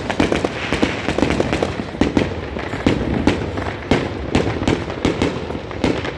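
Many firecrackers and fireworks going off in rapid, irregular succession, a near-continuous crackle of sharp bangs overlapping one another, typical of New Year's midnight.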